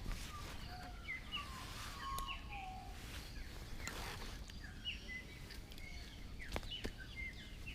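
Several birds chirping and calling in quick, short high notes, with a few sharp clicks and a steady low background noise.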